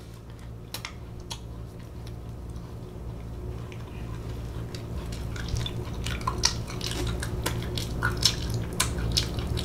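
Close-miked chewing of a Crumbl cookie: wet mouth clicks and lip smacks that grow denser and louder toward the end, over a steady low hum.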